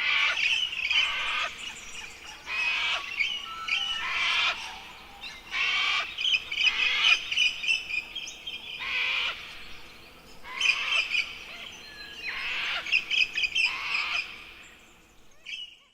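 Birds calling: a run of quick repeated notes, one call after another about every second, with no other sound underneath.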